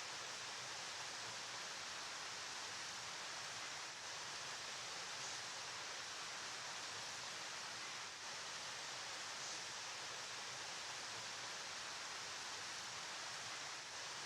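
Steady rushing of a flowing river, an even hiss with no distinct splashes or changes.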